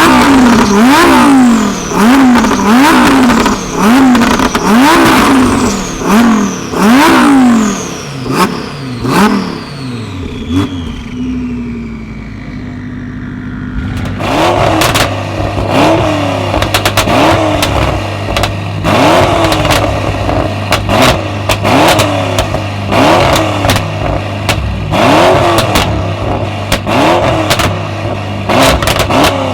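Tuned performance car engines revved in quick blips about once a second, with sharp cracks among them. The first car's revs die away about ten seconds in; about fourteen seconds in, another car idles with a steady hum and is blipped the same way.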